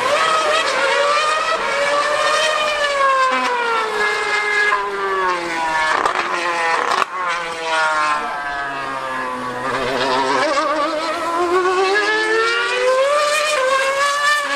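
2013-era Formula 1 car's V8 engine screaming at high revs. Its pitch climbs, falls in steps to a low point about halfway through, then climbs again through the gears.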